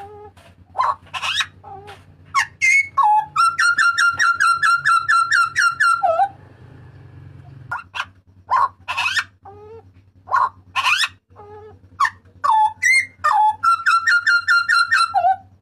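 Butcherbird calling loudly: a string of sharp, abrupt calls, then a fast rattle of one note repeated about five times a second for over two seconds. The sharp calls and the rattle come round again near the end, over a faint steady hum.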